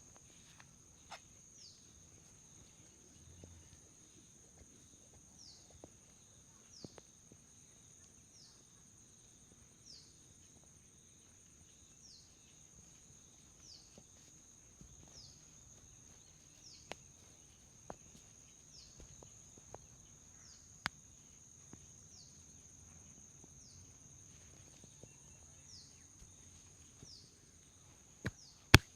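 Head massage by hand: faint scattered taps, clicks and hair rubbing, with a sharp snap near the end. Under it runs a steady high whine with a small falling chirp repeating about every second and a half.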